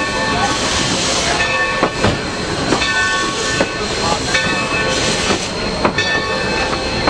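Railroad train rolling past, its wheels knocking over rail joints about once a second over a steady rushing noise, with intermittent high ringing tones.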